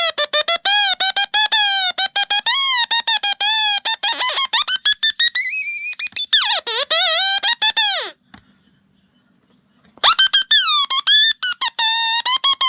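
A shrill, high-pitched squeaking tone that wobbles in pitch and is chopped into rapid stutters. It glides upward around the middle, breaks off for about two seconds a little after eight seconds in, then starts again.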